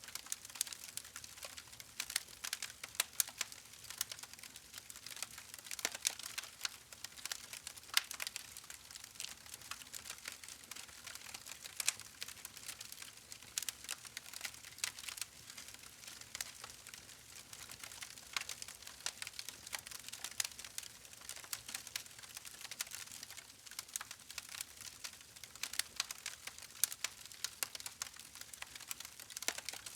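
Wood fire crackling: a steady run of irregular sharp pops and snaps over a faint hiss.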